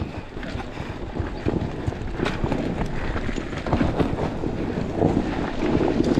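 Enduro dirt bike rolling over rocks and ruts, its chassis and suspension clattering and knocking irregularly, with wind buffeting the microphone.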